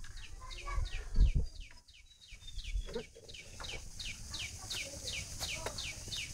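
A small bird peeping over and over: short, high notes that fall in pitch, about three a second. A low thump, likely the phone being handled, comes about a second in.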